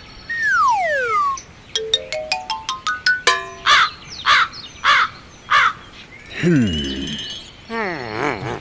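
A string of cartoon sound effects: a falling slide whistle, then a quick rising run of plinking notes, four short squawking calls, and near the end two wobbling, falling voice-like slides.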